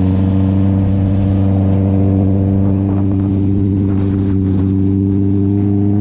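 Honda CB650R inline-four through an SC Project aftermarket exhaust, running at a steady engine speed with an even, unchanging exhaust note.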